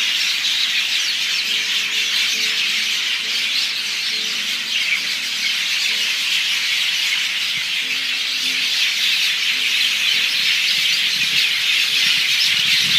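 A flock of many birds in the trees chirping and squawking all at once, a dense, unbroken chorus with no let-up.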